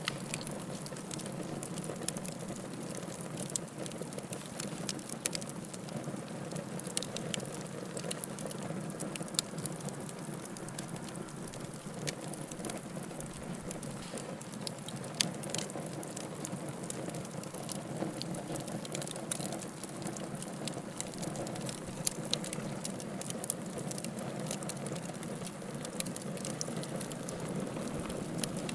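Firewood burning in a fireplace: a steady low rush of flames with frequent small crackles and pops, and now and then a louder pop.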